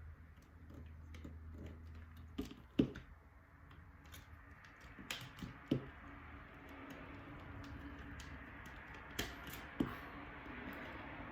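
Light clicks and taps of small parts or tools being handled, in three pairs about half a second apart, over a low steady hum.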